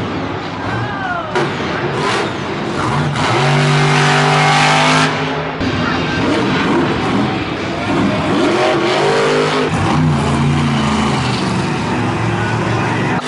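Monster truck engines revving loudly, the pitch climbing and falling, with the loudest stretch about three to five seconds in.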